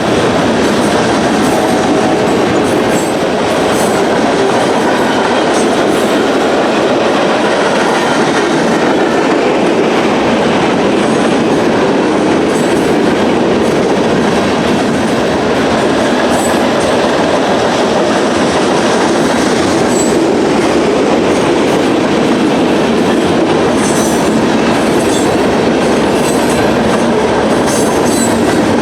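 Freight train rolling past, a loud, steady rumble of steel wheels on the rails with scattered high crackles.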